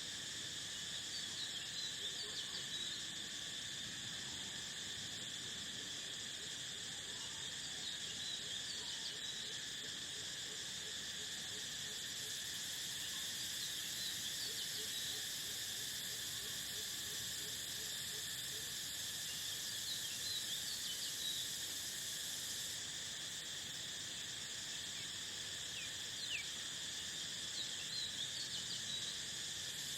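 Steady chorus of crickets, a continuous high-pitched trill, with brief bird chirps scattered over it now and then.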